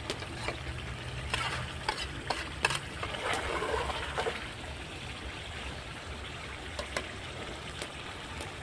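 Desi chicken pieces and onion-tomato masala sizzling in oil as they are stir-fried (bhuna), with a spoon scraping and knocking against the pot now and then. The frying is cooking the masala down until the oil separates, before water goes in for the gravy.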